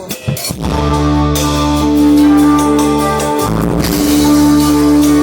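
Rock music: electric guitar chords held and ringing over drums, with a short break about three and a half seconds in before the chord comes back.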